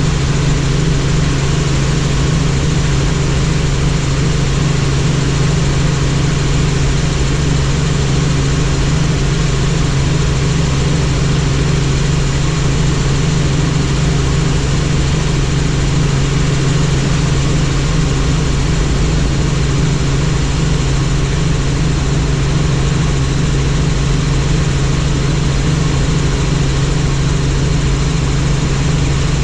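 Helicopter in flight: a loud, steady drone of engine and rotor with a strong low hum that holds unchanged throughout.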